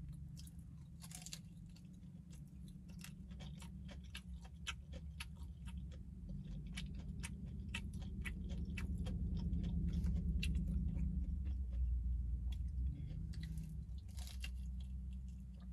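Close-up chewing and biting of crispy fried chicken: a quick run of sharp crunches and crackles. A low steady rumble runs underneath, loudest in the middle.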